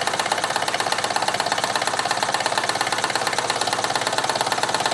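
Bing No 130 toy steam engine running on live steam, a rapid, even beat of exhaust puffs and ticking mechanism that holds steady throughout. It has just come up to steam and is running smoothly.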